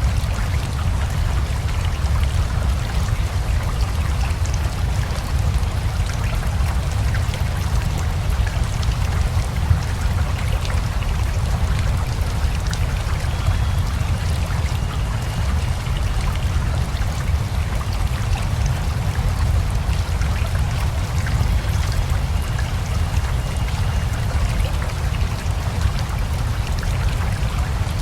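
Steady rain together with a flowing river: a constant rushing with a deep low rumble underneath.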